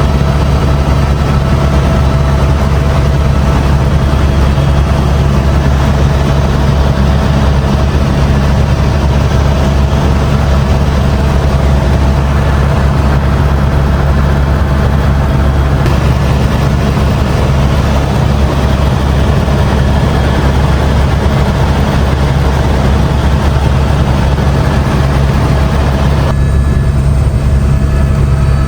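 Helicopter engine and rotor running steadily in flight: a loud, unbroken low drone with a few steady tones above it. The higher part of the sound turns duller about 26 seconds in.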